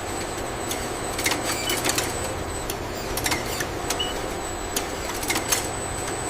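Industrial machinery running with a steady low hum and a thin high whine, with irregular sharp clicks and ticks over it; the sound cuts off suddenly at the end.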